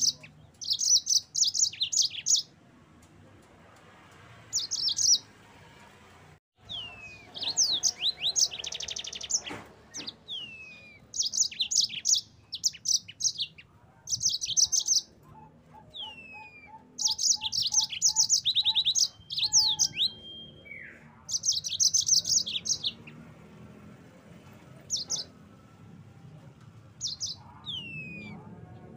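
Yellow-fronted canary (Mozambique canary) singing: bursts of rapid high trills broken by short falling whistle notes, with pauses of a second or more between phrases.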